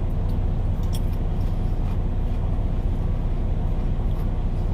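Semi truck's diesel engine idling, a steady low rumble and hum.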